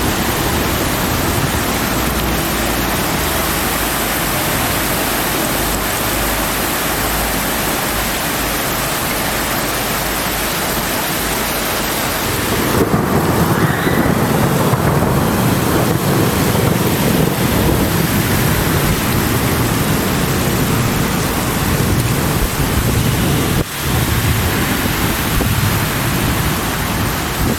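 Torrential thunderstorm rain pouring down in a steady, dense rush. About halfway through, a deeper rumble of thunder comes in under it.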